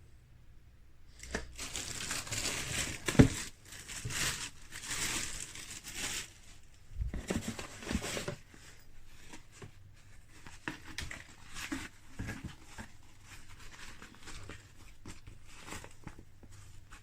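Irregular crinkling and rustling, as of plastic or packaging being handled, with scattered clicks and knocks and one sharp knock about three seconds in.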